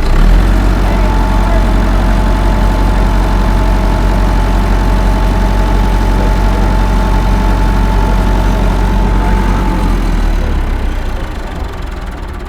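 Massey Ferguson 261 tractor engine, just started, running loud and steady, then dropping off and fading over the last couple of seconds.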